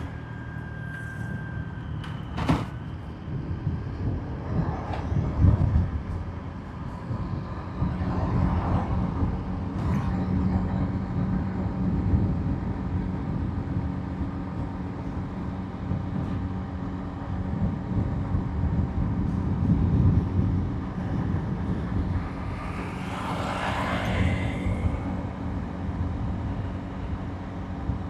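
Motorbike riding along a road: its engine runs steadily under road and wind noise. There is a sharp click about two and a half seconds in, and a brief louder hissing swell near the end.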